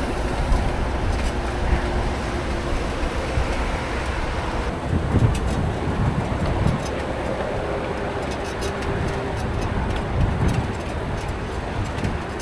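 Steady rumbling noise of riding a bicycle: wind on the microphone and tyre and road noise, with faint ticking in the second half.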